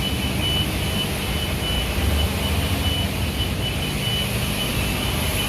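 Self-service car wash with its wand spraying, a steady hiss over a low machine rumble, while the coin-op timer beeps over and over at one high pitch, warning that the paid time is nearly up.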